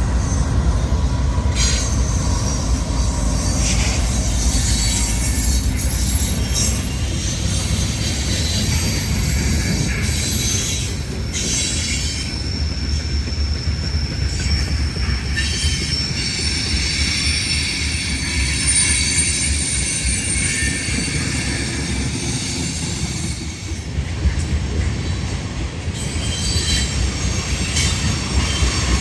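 A train rolling past close by: a steady heavy rumble of wheels on rail, with the wheels squealing and some clickety-clack over the rail joints.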